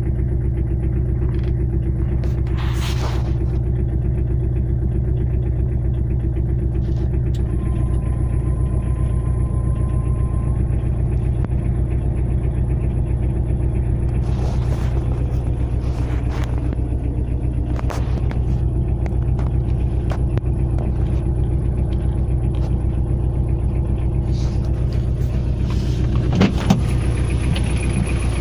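Tata Indica engine running steadily at an even speed, with the knock the owner is asking to have diagnosed. A few faint sharp clicks come through on top.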